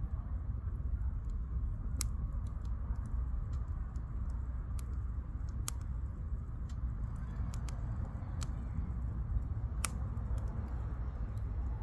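Burning firewood crackling in a campfire, with irregular sharp pops over a steady low rumble.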